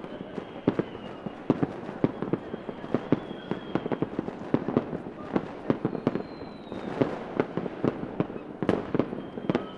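Fireworks going off: a dense, irregular run of sharp bangs and pops, several a second, with a few high whistling tones that dip slightly in pitch now and then.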